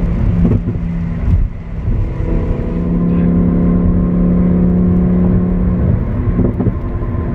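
Lamborghini Huracán Performante Spyder's V10 engine and exhaust pulling at highway speed in Corsa mode, heard from the passenger seat. The note eases off briefly near two seconds in, then holds a steady pitch.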